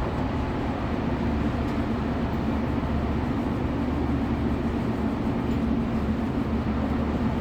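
Steady diesel drone of a Class 156 Sprinter's Cummins underfloor engine, heard from inside the carriage.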